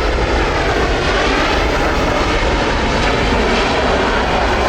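Airliner engines running loud and steady as an aircraft passes close by.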